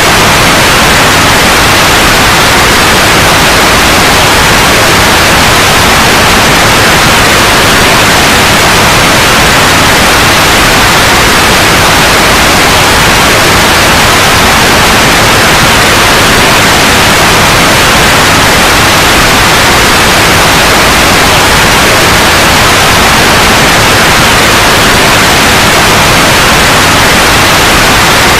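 Steady, loud white noise: an even hiss that does not change.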